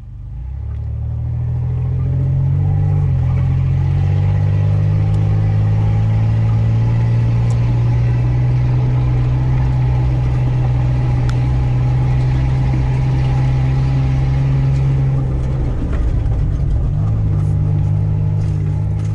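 Off-road SUV's engine heard from inside the cab, running steadily at low speed on a rough dirt track. The engine note changes briefly about three seconds in and again about sixteen seconds in.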